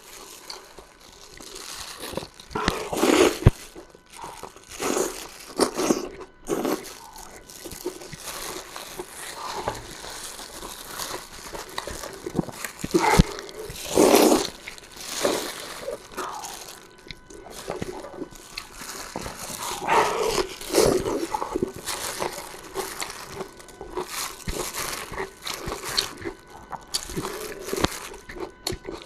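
Close-up eating sounds: irregular slurping, sucking and chewing of soft, well-stewed food, with louder slurps at a few points.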